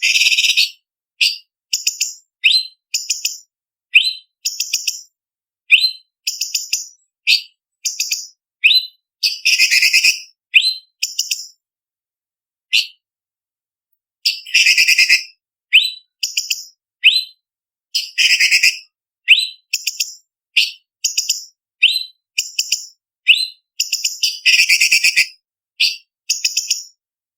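Cucak cungkok leafbird singing: a string of short, sharp, high chirps and whistled phrases, with dense rapid chattering bursts now and then and a short pause in the middle.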